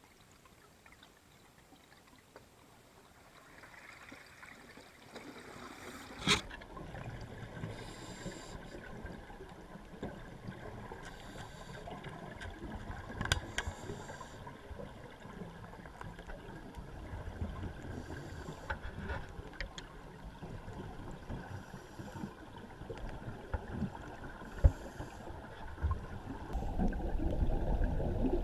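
Underwater scuba-dive sound: a muffled low rumble of water with short hissing bursts every few seconds, like a diver's exhaled bubbles, and a few sharp clicks. The first few seconds are nearly silent.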